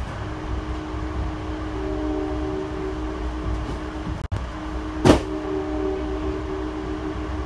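Inside an Amtrak Cascades passenger car: a steady low rumble with a hum of several steady tones. A sharp knock comes about five seconds in.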